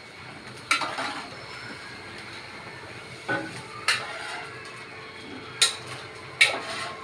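Boiled corn kernels frying in butter in a pan with a steady sizzle, stirred with a spoon that knocks sharply against the pan about five times.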